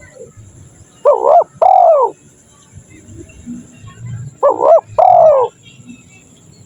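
Spotted dove (tekukur) cooing twice, about three and a half seconds apart: each call a short double note followed by a longer arched coo that rises and then falls.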